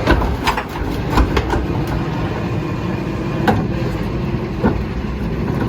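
Heil ACX rear-loader garbage truck running, a steady low rumble, with about six sharp knocks and clanks over it.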